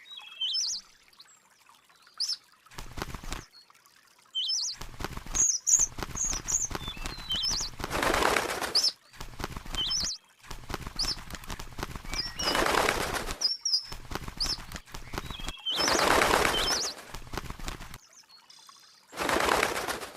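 Birds giving short, high chirps, with several rushing bursts about a second long of wings flapping.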